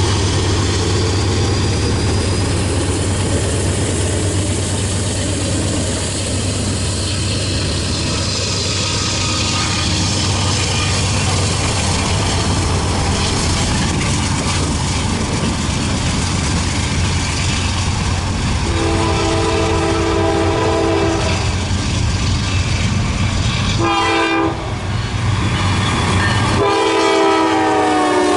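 A train running close by with a steady low engine rumble and rail noise. Its locomotive horn then sounds: a long blast about two-thirds of the way through, a short blast, and another long blast starting near the end.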